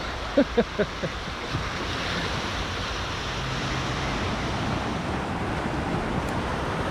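Ocean surf washing up the beach, a steady rush of breaking waves with some wind on the microphone.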